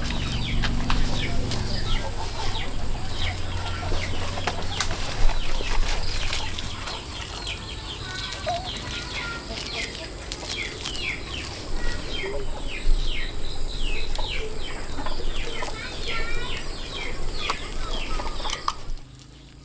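Many short, high chirping calls of fowl, with a low rumble in the first few seconds.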